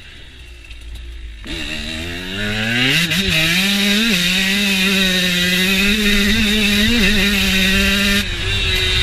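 KTM motocross bike engine revving up hard about a second and a half in, then held at high revs for about five seconds, with a buzzing, chainsaw-like note. Near the end the revs drop suddenly.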